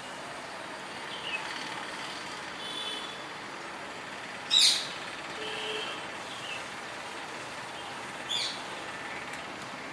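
Birds calling with scattered short chirps and sweeping calls, the loudest about halfway through and another near the end, over a steady background hiss.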